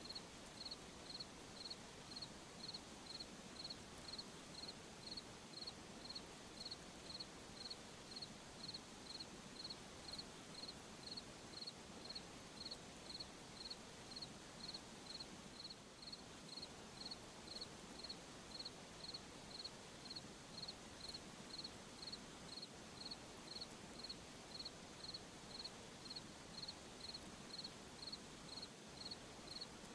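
Cricket chirping at a steady even rate, about three short high chirps every two seconds, over a faint steady hiss of night insects.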